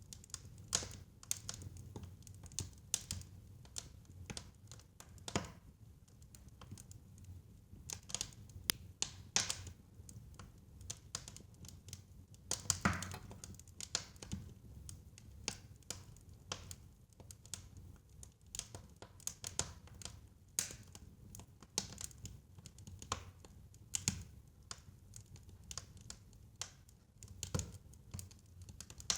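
Fire in a fireplace crackling, with irregular sharp pops and snaps over a low rumble of flame. A louder, longer crackle comes about a third of the way in.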